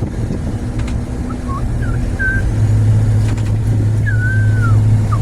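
Car engine and road noise from inside a moving car: a steady low drone that grows louder about halfway through. Over it come several short chirping whistles and one longer falling whistle near the end.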